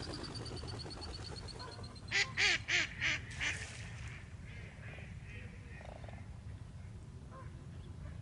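A waterbird calling: a run of five loud calls about a third of a second apart, starting about two seconds in, the last one weaker, over a faint outdoor background with softer distant calls.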